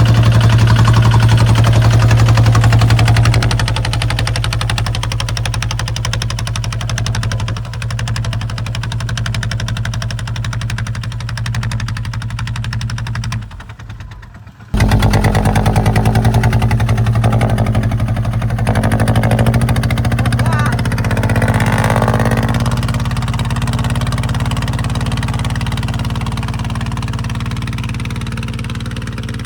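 Kubota ZT155 single-cylinder diesel engine running steadily while plowing. The sound drops out sharply for about a second midway, then comes back and slowly fades toward the end.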